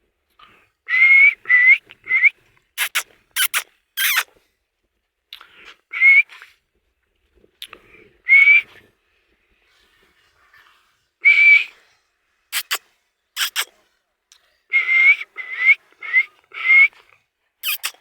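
Pet parrot whistling: short notes that rise at the end, coming singly and in quick runs of two to four. Several sharp, shrill squawk-like strokes fall among them, in pairs and a triple.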